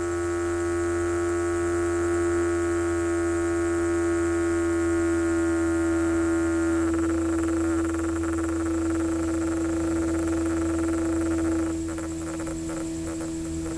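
Small battery-powered DC hobby motor running with a steady humming whine. The higher overtones fade about halfway through, and it gets a little quieter near the end.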